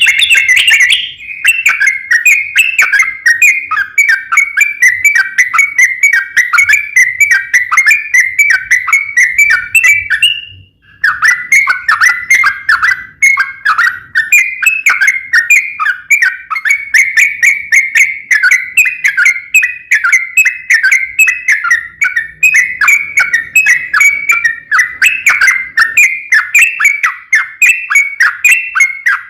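Yellow-vented bulbul (trucukan) singing a long, rapid, unbroken chattering song of quick notes, breaking off briefly about ten seconds in and then running on.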